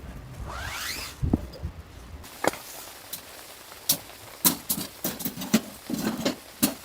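A rising swish about half a second in, then, after about two seconds, a dozen or so irregular sharp clicks and knocks, some with a dull thud, as of things being handled or struck.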